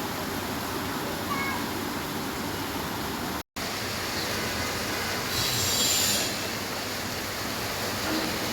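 Steady rain falling, heard as an even hiss, cut off by a split-second gap of silence about a third of the way in. A louder, higher-pitched hiss swells for about a second past the middle.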